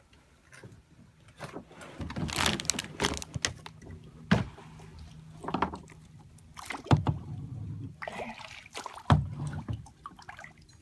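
Irregular knocks and bumps against a kayak, mixed with short bursts of water sloshing, about one every second or so.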